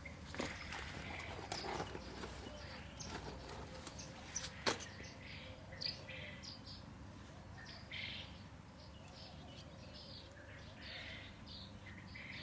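Small birds chirping: short, high chirps repeated throughout, with some rustling and one sharp click in the first five seconds.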